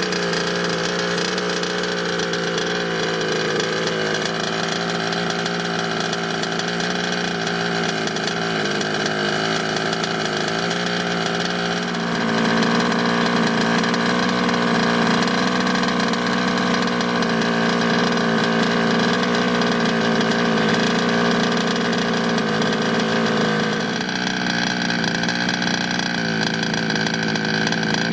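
King Motor Blade's 34cc two-stroke petrol engine running on its first break-in run, mostly at a steady idle. About halfway through it is held a little faster and louder for about twelve seconds, then settles back to idle.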